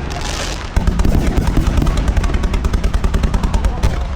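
Aerial fireworks going off in a rapid volley: a short hiss, then from about a second in a dense run of bangs and crackles.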